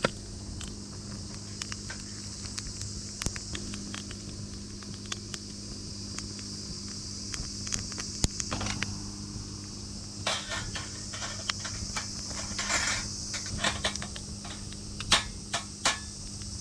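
Wood fire crackling, with irregular sharp pops and snaps that come thicker a little past the middle, over a steady high-pitched hiss and a low hum.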